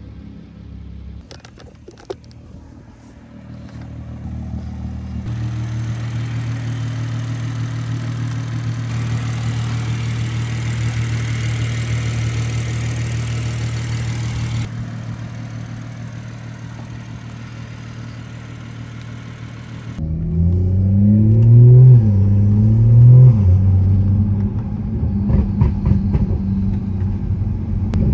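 BMW 440i's turbocharged B58 inline-six, running a Stage 2 tune with a catless downpipe and open cone-filter intake. It first runs at a steady pitch with a hiss over it. About twenty seconds in it gets much louder under hard acceleration, the pitch climbing and dropping at each gear change.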